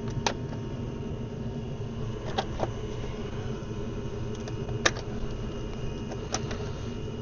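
Five sharp metallic clicks of hand tools on metal parts, spaced irregularly, over a steady low background rumble.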